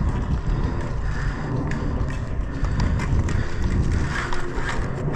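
Running footsteps with a steady low rumble on the microphone and a few scattered sharp clicks.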